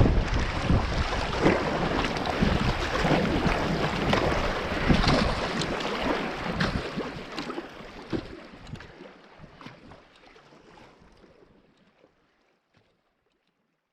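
Whitewater river rushing and splashing around a kayak, with wind buffeting the microphone of a GoPro. It fades out gradually over the last several seconds to silence.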